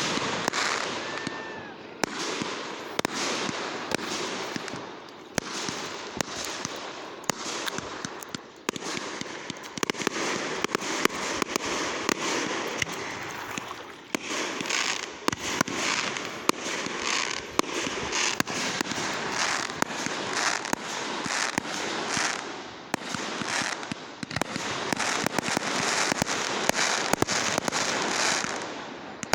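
Fireworks going off in rapid succession: dense crackling and many sharp, overlapping pops and bangs, swelling and easing every few seconds with a few brief lulls.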